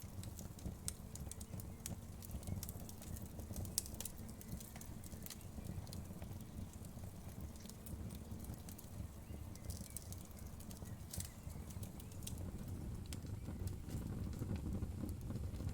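Wood fire crackling in a fireplace: a steady low rumble of flames with irregular sharp crackles and pops of burning wood.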